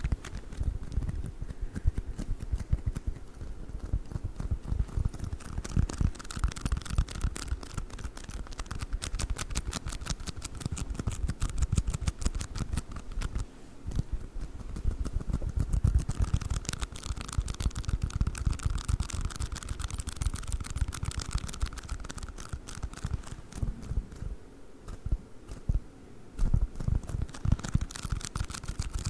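Play foam being squished and kneaded close to the microphone: a dense, continuous crackling of many tiny sticky pops and clicks, easing off briefly a couple of times.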